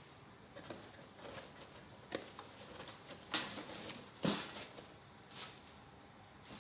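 Hands handling a smartphone box: a few scattered taps and rustles, the two loudest about three and a half and four and a half seconds in.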